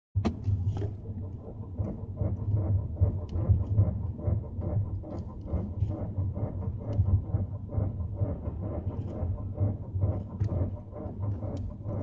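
Creaking: many small, irregular clicks and ticks over a steady low hum.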